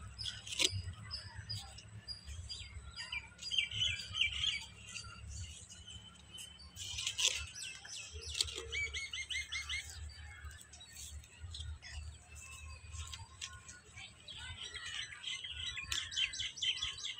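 Small birds chirping and calling. A short high note repeats about twice a second for the first five seconds, then comes quicker trilled chirping, with another fast run of chirps near the end.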